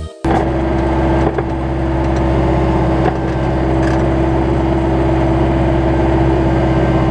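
Kubota tractor engine running steadily at an even speed, with a steady tone over the engine note.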